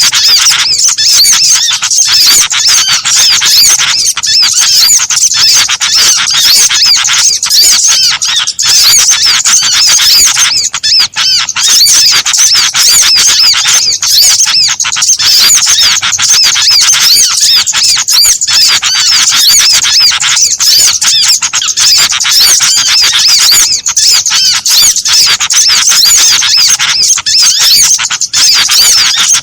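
Bird-catching lure recording: a loud, unbroken chorus of many small birds' high chirps and squeaks layered over one another.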